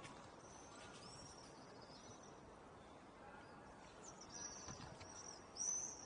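Faint high-pitched bird chirps: a few short calls in the first two seconds, then a louder run of them near the end, over a faint steady outdoor hiss.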